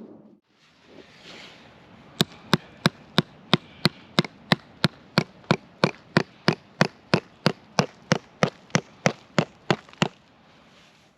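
A steady run of sharp knocking strikes, about three a second, evenly spaced. It starts about two seconds in and stops near the ten-second mark, like a hand tool striking wood again and again.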